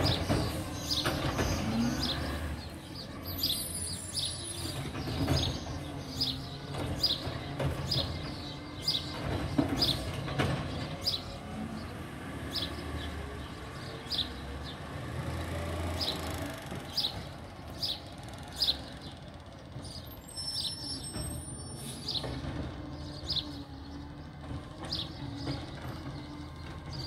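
A bird chirping over and over, short high chirps about once a second, over the low running of a garbage truck's engine, which grows fainter as the truck moves off.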